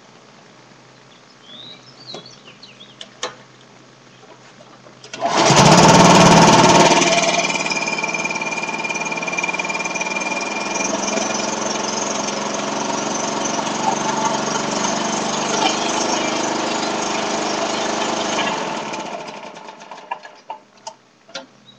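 Vintage Toro 4.5 hp small engine cold-starting: a few light clicks, then about five seconds in it catches with a loud burst and settles into steady running. Near the end it stops and winds down.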